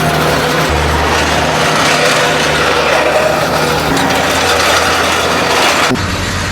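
Compact tractor engine working under load while the ABI TR3 landscape rake's ripper teeth drag through gravel with a rattling, grinding scrape; the sound changes abruptly near the end.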